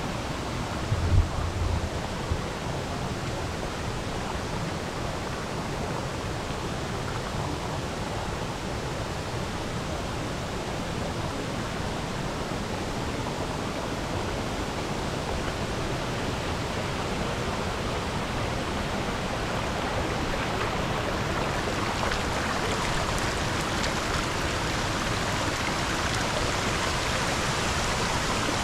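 Waterfall pouring, a steady rush of falling water. A couple of low thumps come about a second in, and the rush grows a little louder and brighter in the last few seconds.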